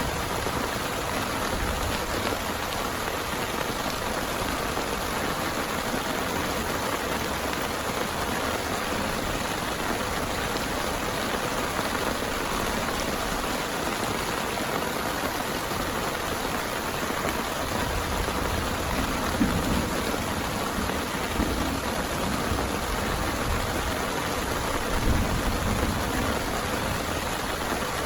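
Heavy rain falling steadily, with a few low rumbles in the second half.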